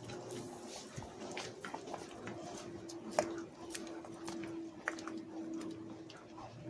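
Thick flour gravy simmering in a pan, giving off scattered small pops and ticks, over a steady hum.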